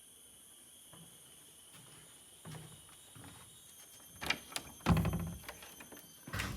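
A series of knocks and thuds, starting about a third of the way in and loudest near the end, over steady high-pitched insect calls.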